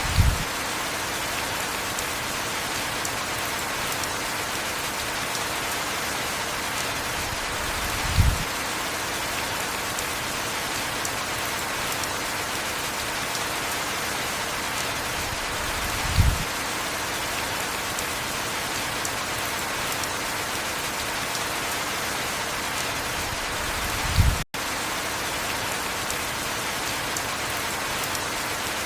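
Steady heavy rain falling, with a short low thud about every eight seconds. The sound cuts out for an instant just after the last thud, near the end.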